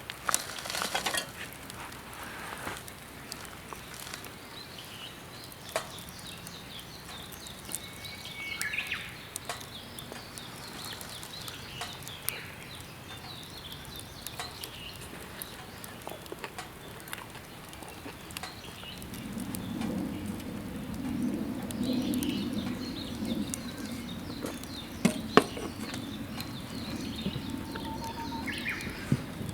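Outdoor ambience: scattered clicks and taps with a couple of short bird chirps, and a low hum that swells in about two-thirds of the way through.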